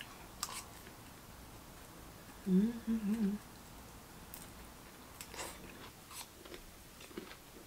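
Close-mouthed chewing of fried stuffed chili peppers, with a few faint crunches. About two and a half seconds in comes a short, wavering hummed "mmm".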